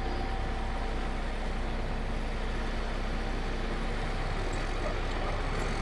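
Heavy diesel engine of an earth-moving machine running steadily at an even pitch.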